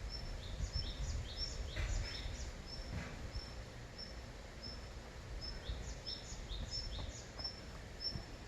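Small songbirds calling: one repeats a short high note about twice a second, while others give quick runs of downward-sliding chirps about a second in and again around six seconds. Under them runs a steady low rumble of wind.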